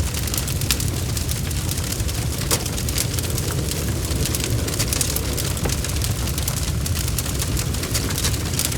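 Wood fire of burning logs in a fireplace crackling steadily, with many small sharp pops over a constant low rumble.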